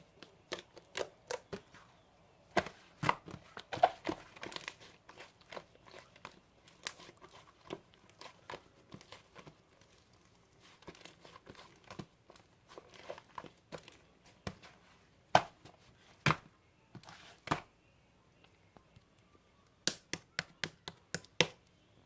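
Slime being played with by hand: clusters of sharp sticky pops and clicks as it is pressed and pulled, with short pauses between handfuls.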